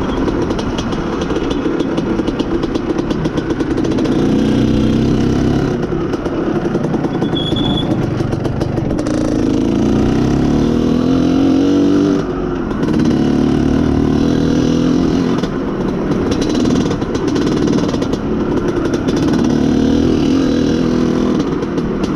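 IZh Planeta Sport's single-cylinder two-stroke engine running under way, its revs repeatedly climbing and dropping. It is running on a lean mixture and, according to the rider, lacks top end and misfires.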